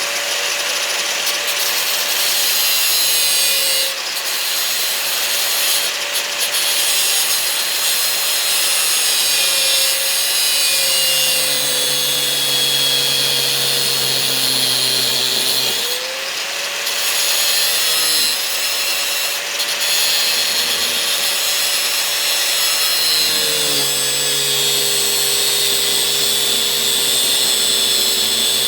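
Electric grinder running and grinding metal, its whine dropping in pitch twice for several seconds as it bears down. It is widening the jaw of a ball joint separator.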